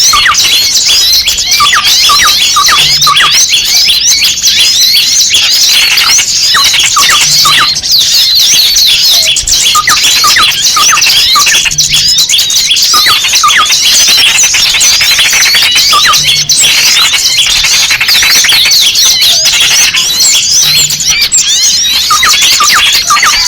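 Dense, loud chorus of many small birds chirping and squeaking at once, with rapid overlapping high notes and repeated lower chips. It is a lure call for trapping small birds, built from the agitated calls of small birds that have been caught.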